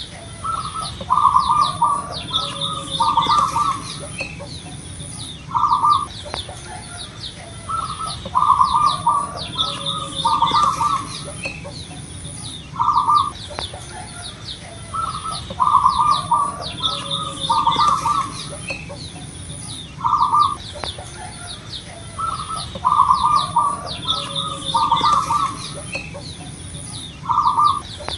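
Zebra dove (perkutut) singing its cooing song: a phrase of several coos repeating about every seven seconds. Small birds chirp quickly throughout, and a thin high tone keeps breaking on and off.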